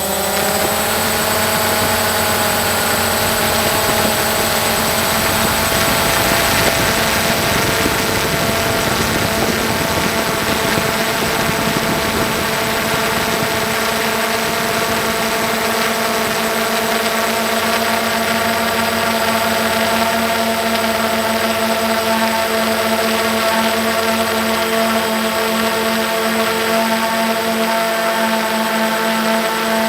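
An engine running at a steady speed. Its pitch dips and climbs back right at the start, then holds nearly constant.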